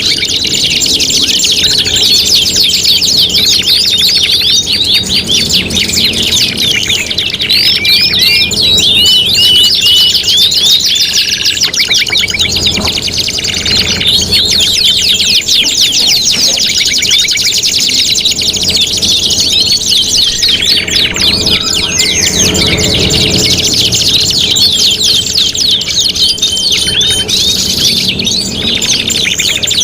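Several domestic canaries singing at once: long, fast rolling trills and rapid chirps overlapping continuously, with no break.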